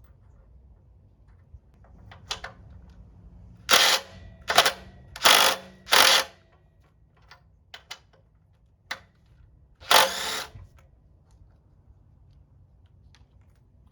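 Ratchet wrench clicking in four short bursts, then one more a few seconds later, as handlebar bolts on a motorcycle are loosened, with light ticks of tool and metal handling between.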